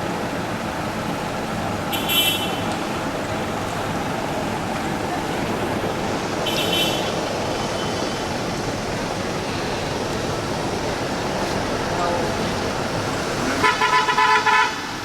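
Steady traffic and crowd noise, with a vehicle horn beeping in a quick run of short toots near the end.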